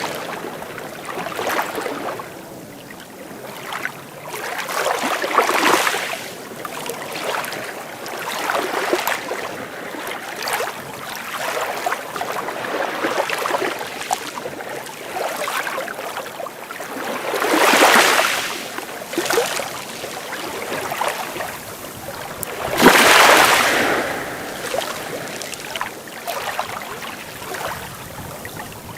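Sea waves breaking and washing up on a beach in irregular surges. Two bigger breakers come about 18 and 23 seconds in.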